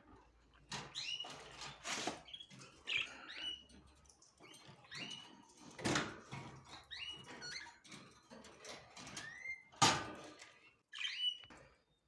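Small cage birds chirping in short calls, about one a second, some sliding in pitch, mixed with sharp clicks and rustling.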